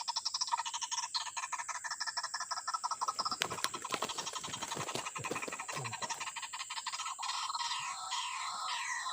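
White-breasted waterhens calling: a fast, even croaking pulse at first, then a run of repeated falling calls near the end. In the middle there is a low rustling and scuffling, which fits a snared bird struggling.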